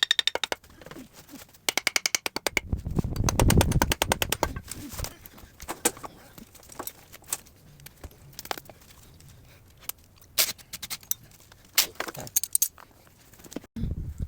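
Tool work: two bursts of rapid, evenly spaced clicking, then a low rumble about three seconds in, then scattered sharp metallic knocks and scrapes.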